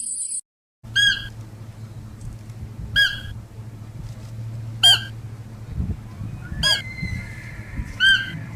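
Farm goose honking, five short loud calls spaced about two seconds apart, over a steady low hum.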